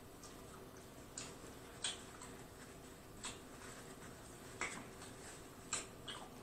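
Faint, wet mouth clicks and smacks of a man chewing a mouthful of lobster, about six sharp clicks at uneven intervals.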